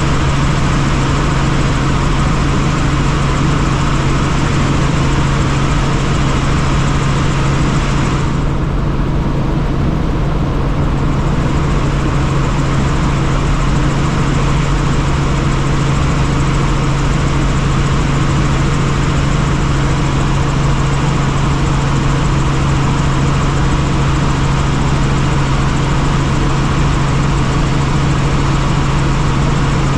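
Helicopter in flight, heard on board: a steady, loud drone with a strong low hum under a wide hiss. The hiss briefly dips for a few seconds about eight seconds in.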